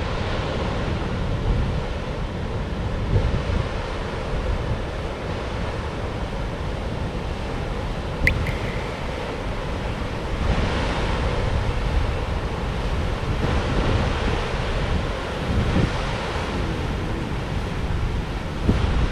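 Heavy typhoon swell breaking on the shore: a continuous rumbling surf that swells and eases every few seconds, with wind buffeting the microphone. A brief sharp high chirp sounds once about eight seconds in.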